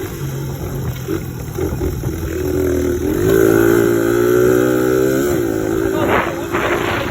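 1986 Suzuki DR100's small single-cylinder engine running under way; its note climbs about three seconds in, holds for a couple of seconds, then drops back.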